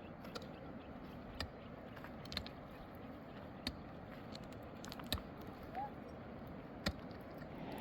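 Scattered sharp clicks and snaps, each brief and spaced irregularly about a second apart, over a steady low background noise.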